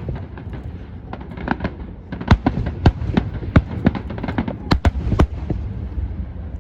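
Fireworks bursting in a rapid, irregular volley of sharp bangs over a steady low rumble, the bangs bunching most thickly in the middle of the stretch and thinning out near the end.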